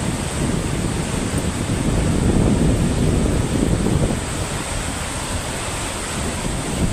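Loud rushing water with wind buffeting the microphone, easing slightly about four seconds in.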